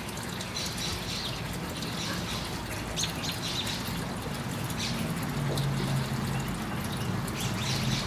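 Small birds chirping here and there over a steady low hum.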